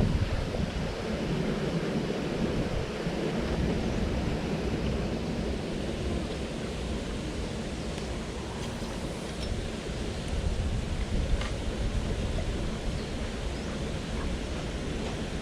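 Steady rush of a jungle headwater stream running over rocks, with a few faint clicks in the second half.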